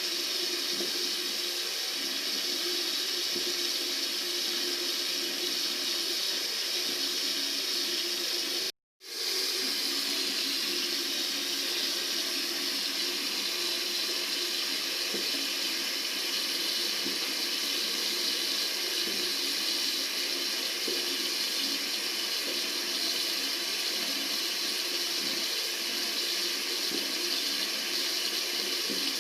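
Tap water running steadily into a sink, an even rushing flow. About nine seconds in it cuts out completely for a fraction of a second, then runs on unchanged.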